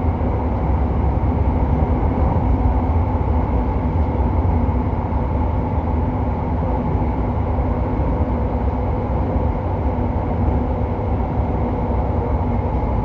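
JR Hokkaido 731 series electric train car MoHa 731-109 running steadily, heard from inside the car: a deep, even running roar with rail and wheel noise. The traction motor on its Otaru-end bogie makes an abnormal roar resembling an old nose-suspended (tsurikake) motor, which the uploader takes for a fault the car may be serviced for.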